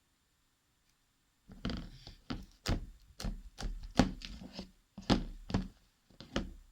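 Homemade slime being squeezed and worked in the hands, making an irregular run of sharp wet clicks and pops with low thumps, starting about a second and a half in.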